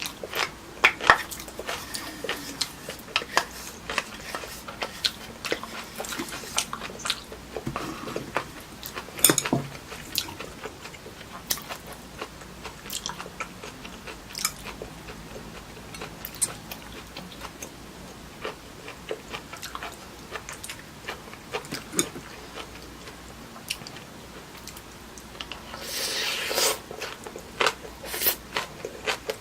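Close-miked eating: chewing and biting, with many scattered sharp clicks and taps and a short rustling stretch near the end.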